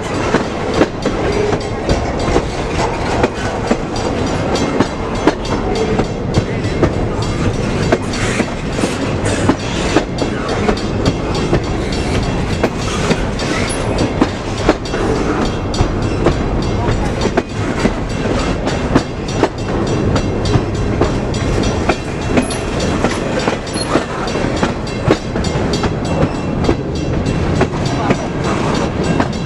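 Freight train cars rolling past, their wheels clacking over rail joints in a steady run of clicks over a continuous rumble.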